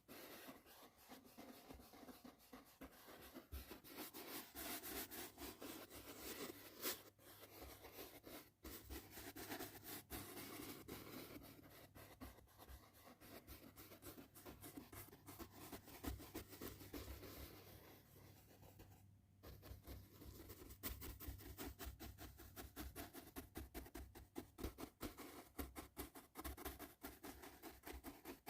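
Quiet, quick, scratchy brush strokes repeated over and over, with a short pause a little past two thirds of the way through.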